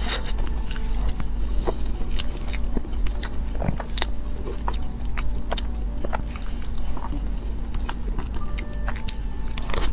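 Close-miked eating of soft cream cake: chewing with many short, sharp mouth clicks and smacks, over a steady low hum.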